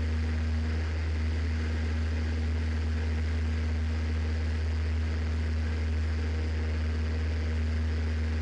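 Cessna 172's engine and propeller droning steadily in cruise, heard inside the cockpit.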